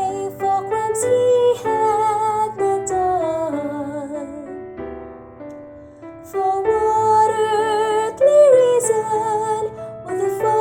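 A female voice sings a slow gospel song with piano accompaniment, the sung notes wavering with vibrato. The singing thins to a quiet pause in the middle, then comes back in.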